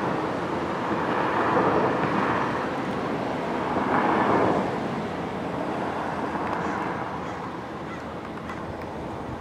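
Street noise of road traffic, with vehicles passing that swell louder twice in the first half and then fade away.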